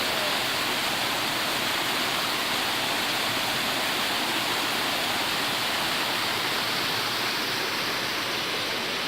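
Steady rush of water pouring down the rock cascade of Hebron Colony Falls, an even, unbroken roar with no change in level.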